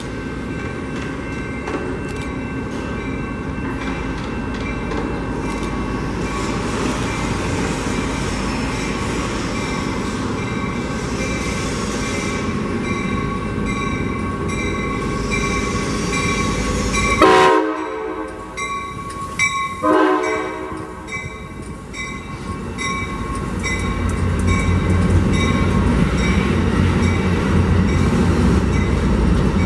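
Passenger train rolling by with steady wheel and rail noise and high ringing tones from the wheels. The train horn sounds twice, briefly, a little past halfway, the loudest thing heard. A low rumble builds near the end.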